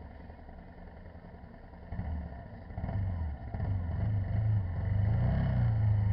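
Motorcycle engine running with a low rumble, quiet at first and then getting louder about two seconds in as it pulls harder.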